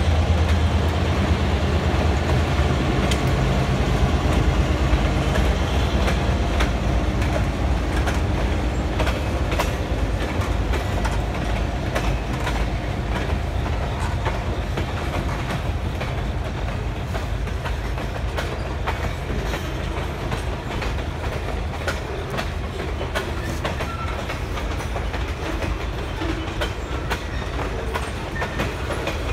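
Freight train passing close by. For the first several seconds the diesel locomotive's engine is loud, with a deep steady hum. After that, freight cars roll past with a steady rumble and frequent sharp clicks from the wheels over the rail joints.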